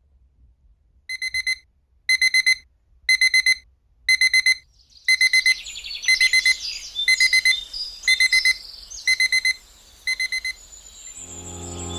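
Digital alarm clock beeping in quick groups of four, one group a second, ten times over. Birds start chirping about halfway through, and music fades in near the end.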